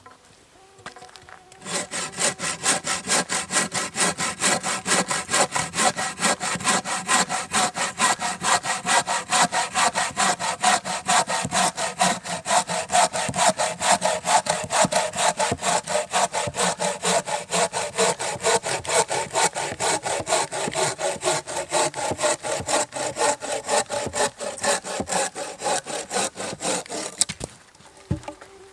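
Hand saw cutting through wood with quick, even back-and-forth strokes, about three to four a second. It starts about two seconds in and stops shortly before the end.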